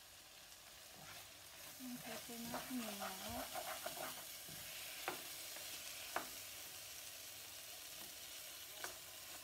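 Spatula stirring and scraping chicken and diced vegetables as they sizzle in a nonstick frying pan, with a few sharp taps of the spatula against the pan. A brief pitched, wavering sound about two seconds in is the loudest part.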